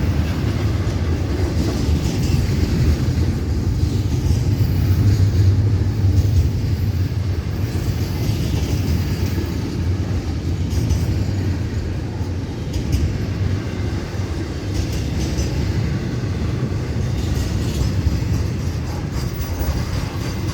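Florida East Coast Railway intermodal freight train, fully loaded, rolling past: a steady low rumble of wheels on rail with light rattling from the cars.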